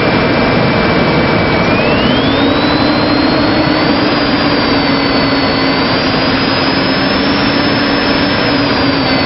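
2004 Ford F-150's 5.4-litre V8 engine running loudly, its speed brought up about two seconds in so that a whine rises in pitch with it, holds, and eases back down near the end.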